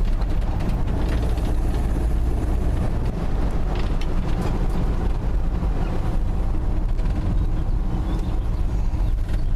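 Dodge D150 pickup's 225 slant-six engine pulling the truck along the road, a steady engine drone mixed with road noise and a few light rattles.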